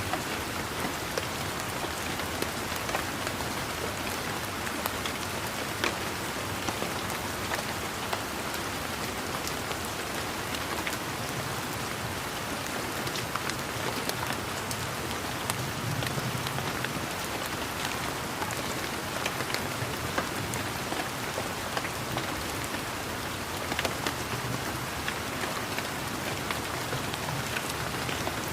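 Steady rain falling on leaves and garden surfaces, with a dense patter of individual drops ticking. A faint low rumble runs underneath through the middle part.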